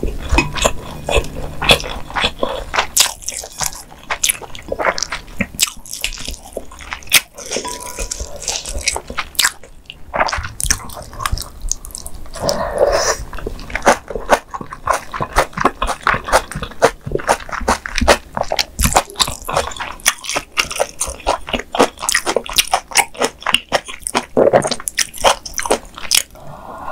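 Close-miked chewing of spicy mala xiang guo stir-fry and rice: a dense run of quick wet mouth smacks with some crunches.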